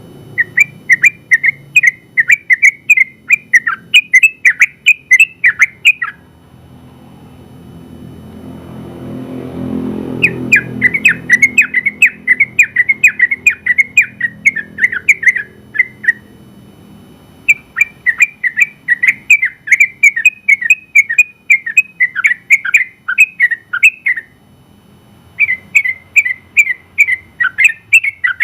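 Sooty-headed bulbul (trucukan) singing its long, rapid 'ropel' song in four bouts of quick, bubbling notes, about four a second, with short pauses between bouts. A low rumble swells up in the pause after the first bout.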